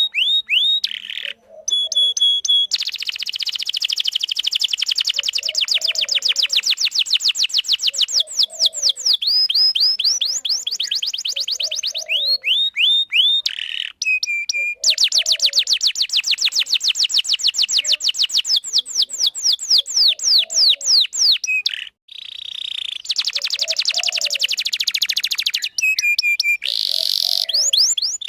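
Domestic canary singing a long, fast song of rapidly repeated rising chirps and trills, many notes a second, broken by a few short pauses.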